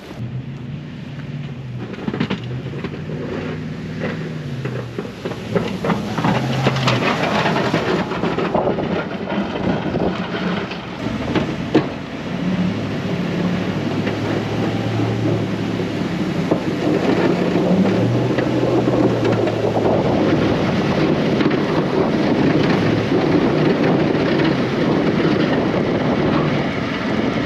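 An engine's speed rising and falling under load, with a steady gritty scraping and rattling that grows louder after about six seconds.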